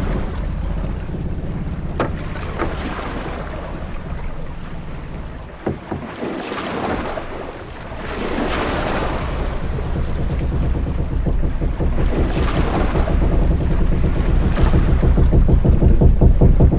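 Ship-at-sea ambience: a steady low rumble of wind with waves washing in slow swells, one dying away about a third of the way in and another building a couple of seconds later. A few sharp knocks of the ship sound early on.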